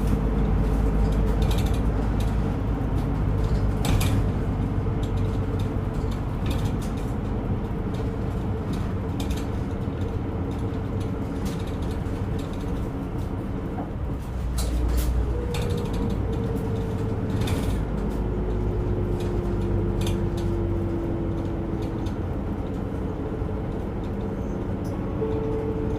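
Inside a route bus under way: the engine drones steadily, while the body and fittings give off frequent rattles and creaks. Partway through, a whine slowly falls in pitch.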